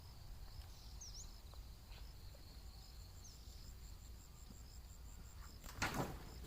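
Insects trilling steadily in a high band, with an evenly pulsing chirp above it. A few short bird chirps come through, and a brief loud burst of noise, like a rustle or scrape, sounds near the end.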